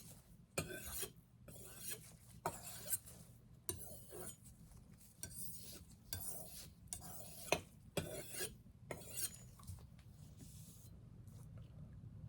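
Steel chef's knife blade drawn in short strokes across a sharpening stone: a quick run of light rasping scrapes, about two a second, that stops about ten seconds in.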